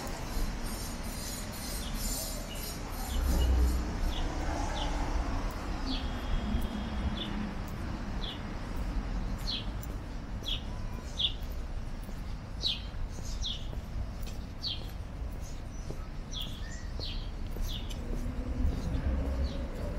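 Small birds chirping, short high chirps repeated every half second to second from about three seconds in. Underneath is a low rumble of wind on the microphone, swelling about three seconds in, and a hiss of city traffic that fades after about four seconds.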